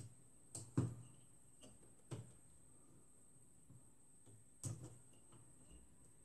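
A few light clicks and knocks of plastic parts being handled while a printer fuser unit is reassembled by hand: two close together in the first second, one about two seconds in and a louder one near the middle, over a faint steady high tone.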